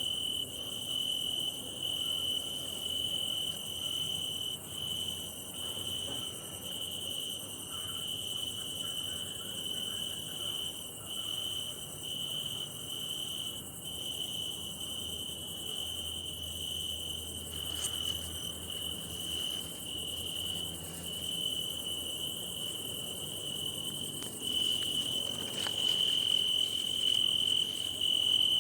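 Crickets singing, made by rubbing their forewings together: a steady, high-pitched trill that grows louder in the last few seconds.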